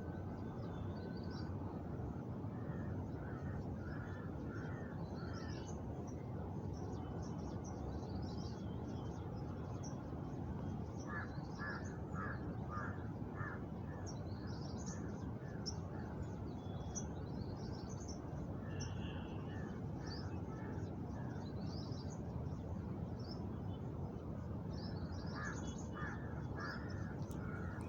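Outdoor ambience of birds: one bird gives four runs of four or five harsh calls, while smaller birds chirp now and then, over a steady background rush.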